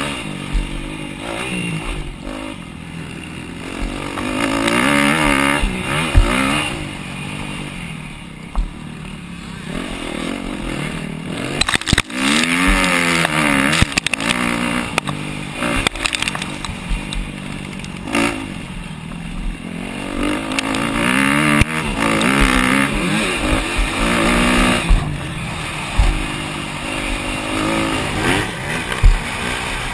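250cc four-stroke motocross bike engines at race pace, revving up and falling off again and again as the riders shift and brake. A few sharp knocks cut through, the loudest about twelve seconds in and near the end.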